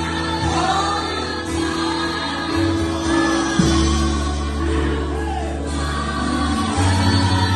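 Christian worship music with a choir singing over held bass and chords.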